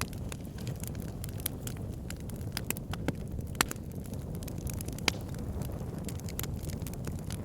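Wood fire burning in a fireplace: a steady low rumble of flames with scattered crackles and sharp pops of burning logs, the loudest pops about three and a half and five seconds in.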